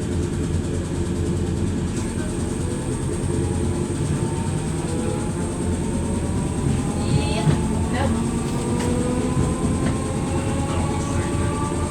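Merseyrail Class 508 electric multiple unit under way, heard from inside the carriage: a steady rumble from the wheels and rails, with the traction motors' whine rising slowly in pitch as the train gathers speed.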